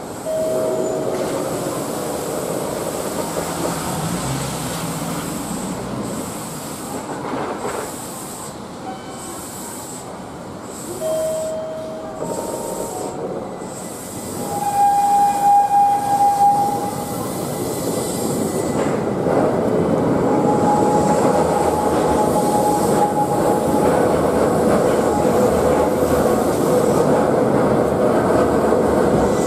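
Keihan street-running train rolling slowly through a tight curve, wheels and motors rumbling steadily. Its wheels squeal on the curve in short high-pitched tones, loudest about halfway through, and a steadier squeal holds near the end.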